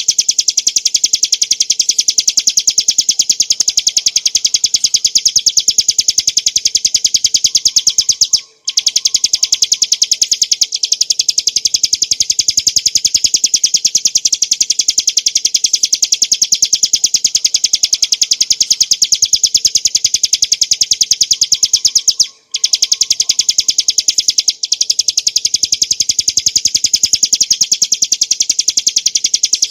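Bar-winged prinia (ciblek gunung) singing a long, fast, unbroken trill of rapidly repeated high notes, the continuous 'ngebren' song, with two brief pauses.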